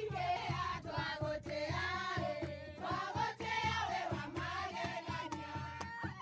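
A group of voices singing a song over a steady low beat.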